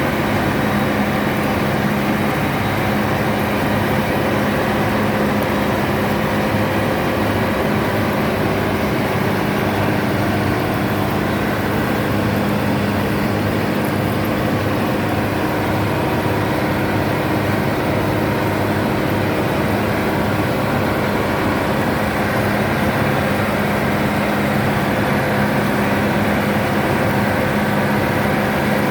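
Bizon Rekord Z058/1 combine harvester running steadily, its 6CT107 six-cylinder diesel engine held at a constant working speed with an even hum and no change in pitch.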